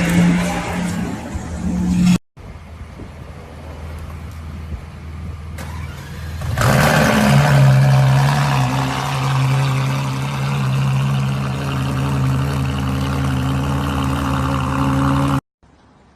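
Supercar engine running loudly, cut off abruptly about two seconds in. A quieter engine sound follows, revs up about six and a half seconds in and holds steady at higher revs, then stops suddenly near the end.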